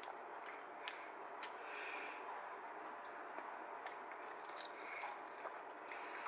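A person eating ripe, juicy Irwin mango: faint wet chewing with a few soft squishes and short clicks over a steady low hiss.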